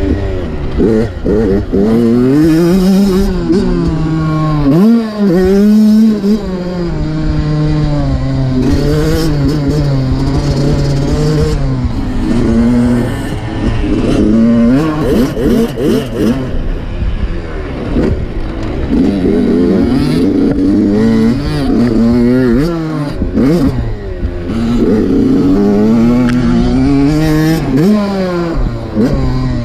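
Dirt bike engine being ridden, its pitch repeatedly rising and falling as the throttle is opened and rolled off, with brief drops in revs about five seconds in and again a little past twenty seconds.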